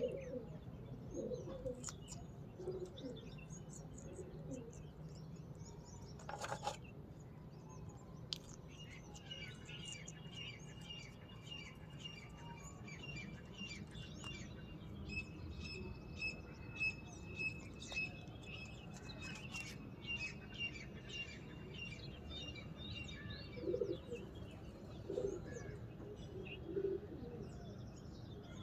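Birds chirping and twittering, with many short sharp clicks in the middle and a thin steady whistle under them. There are a few short low calls about 24 to 27 seconds in.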